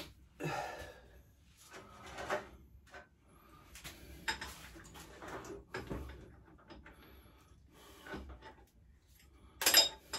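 Irregular clinks, knocks and rustles of metal motorbike parts being handled as the handlebars and their clamps are fitted, with one sharp, louder clatter near the end.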